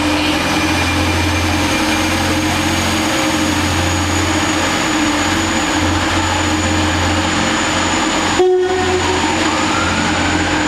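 Train running: a loud, steady drone with a low hum and held tones, broken for a moment about eight and a half seconds in.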